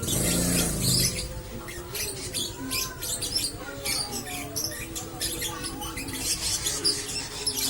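Lovebird chattering in a long unbroken run of rapid, high, scratchy chirps: the continuous 'ngekek' song. A brief low rumble sounds in the first second.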